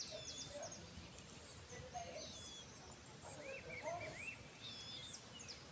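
Birds singing faintly outdoors, one of them repeating a short phrase of arched whistled notes about every two and a half seconds, with higher chirps from others.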